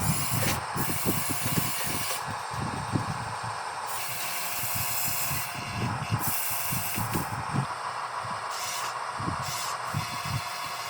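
Radio-controlled model construction vehicle's electric drive motors and gearing running, a steady hissing whir with irregular low knocks and clatter.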